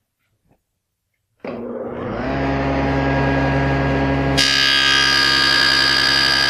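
SawStop table saw switched on about a second and a half in, its motor and blade running up to a steady pitch. About three seconds later the blade starts cutting a box-joint notch in a wooden board, adding a louder, higher rasp over the motor.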